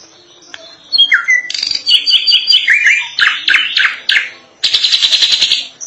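A drongo singing a varied, energetic song. After a quiet first second come rising whistled notes, then a quick series of short repeated notes and sweeping strokes, ending in a fast, harsh, buzzy rattle near the end.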